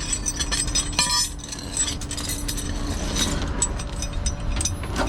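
Metal tow gear clinking and jangling in many short, irregular clicks, over the steady low rumble and faint hum of the idling tow truck.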